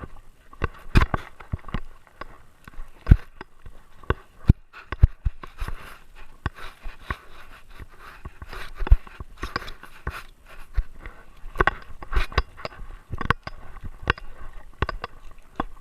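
Irregular knocks, bumps and scrapes from a GoPro strapped to a Great Dane, jostled as the dog moves, with rustling between the knocks.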